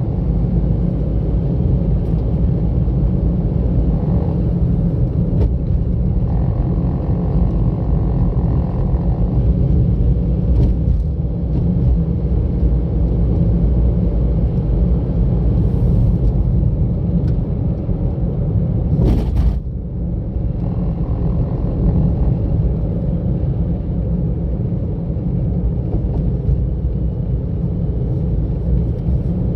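Steady low rumble of a car driving along a road, tyre and engine noise with no speech. A brief sharp noise comes about two-thirds of the way through.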